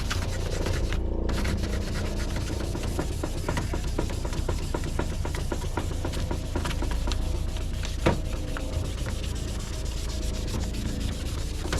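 Wet sanding of a plastic headlight lens: quick, repeated scratchy rubbing strokes over a steady low hum, with one sharp click about eight seconds in.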